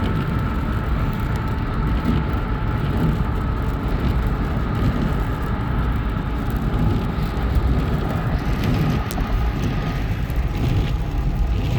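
Steady road and engine noise of a car being driven, a continuous low rumble with a faint steady whine.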